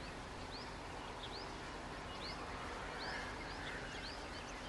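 Outdoor nature ambience: a short rising chirp repeats about once a second over a steady background hiss.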